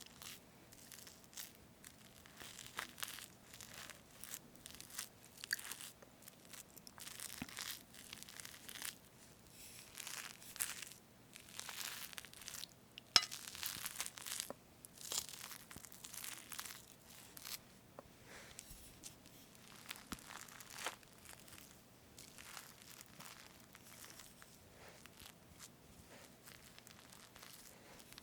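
Fresh whipped cream on a strawberry cake being cut apart, heard as a string of soft, irregular crackles, with one sharp click about halfway through.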